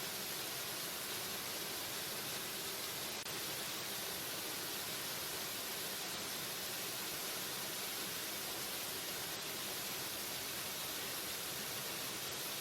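Waterfall: a steady, even hiss of falling water, unchanging throughout.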